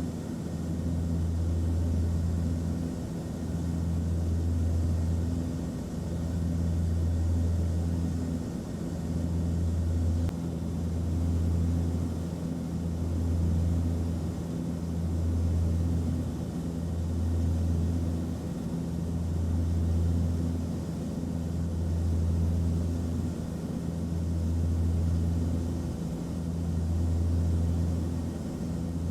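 Airplane cabin noise in flight: a steady low engine drone with a low hum that swells and fades evenly about every two and a half seconds.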